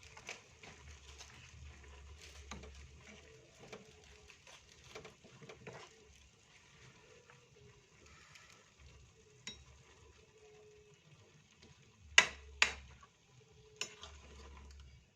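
Spatula stirring noodles and long beans in a pan, with light scrapes and clinks. Near the end come three sharp clanks of the utensil against the pan: two close together, then one about a second later.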